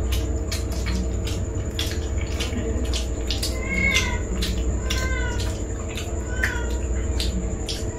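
Frequent crunching and smacking clicks of people chewing crisp fuchka (pani puri) shells over a low steady hum, with a cat meowing three times: about four seconds in, about five seconds in, and once more near six and a half seconds.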